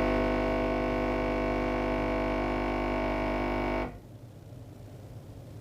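Capsule coffee maker's pump buzzing steadily as it brews a cappuccino, cutting off suddenly about four seconds in as the brew cycle finishes.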